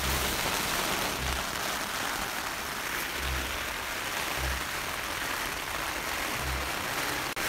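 Heavy rain pouring steadily on a tent, an even hiss, with a low pulsing underneath about once a second.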